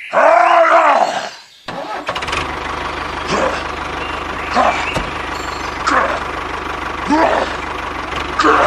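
A steady low engine-like chugging hum. Over it, a short rising-and-falling call repeats about every second and a quarter, loudest at the very start.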